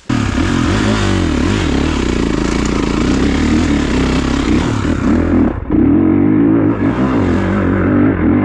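Kawasaki KX450 dirt bike's four-stroke single-cylinder engine revving hard under load up a steep wet hill, its pitch rising and falling with the throttle, with a short drop in the engine note about five and a half seconds in. It is not revving as high as the rider would like.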